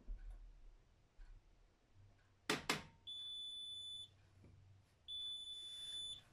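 AEG Öko-Lavamat 76910 washing machine's beeper sounding at the end of its programme: two sharp clicks, then two high, steady beeps, each about a second long and a second apart.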